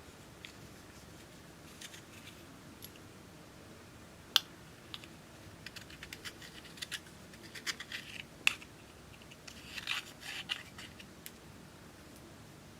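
Clear slime being worked by hand, giving scattered sticky clicks and crackling pops that come thicker in the middle, with two sharper snaps.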